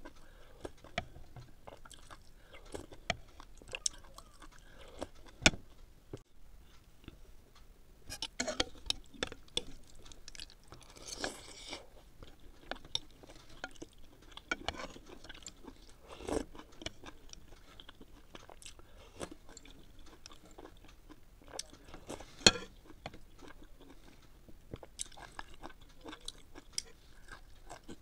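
Close-up chewing and crunching of food, crisp green vegetables and noodle soup, with many small mouth clicks. A few sharper clicks stand out, the loudest about five seconds in and again near twenty-two seconds.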